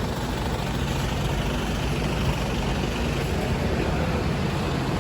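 Steady low rumble of an idling engine, with a faint steady hum over it.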